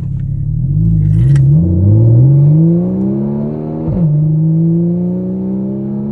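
2014 Porsche Cayman's flat-six with the muffler deleted, heard from inside the cabin: the engine runs steadily, then accelerates with climbing revs, drops sharply once about four seconds in as at an upshift, and climbs again.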